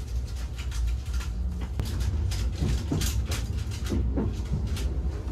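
Inside the cabin of a Saphir Odoriko E261 series electric express train pulling out of the station: a steady low rumble of the moving carriage with a run of clicks, knocks and a few short creaks.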